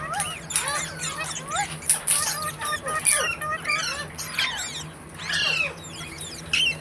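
Pet green parakeet chattering: a rapid string of short whistled chirps that slide up and down in pitch, broken by a few sharp harsh squawks.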